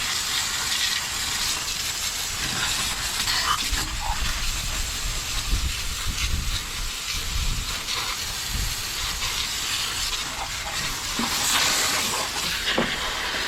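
Water from a hose spraying and splattering against the steel of a track loader, a steady dense hiss that wavers as the spray moves.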